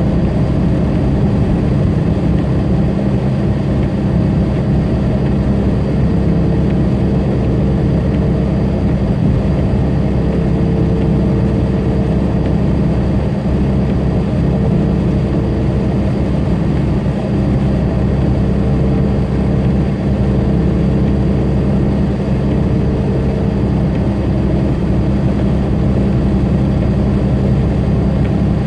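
Steady diesel engine drone and road noise of a tractor-trailer at highway cruise, heard from inside the cab, with a steady hum over a deep rumble.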